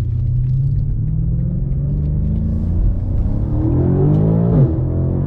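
BMW M5 Competition's twin-turbo V8 pulling hard under acceleration: the revs climb steadily, then drop sharply at an upshift about four and a half seconds in.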